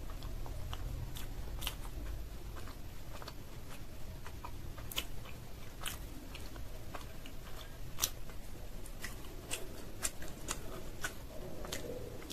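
A person chewing food with the mouth closed, close to the microphone: irregular wet mouth clicks and smacks.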